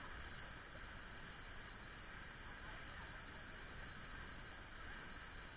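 A steady rushing noise with a low rumble underneath, even throughout, with no distinct events.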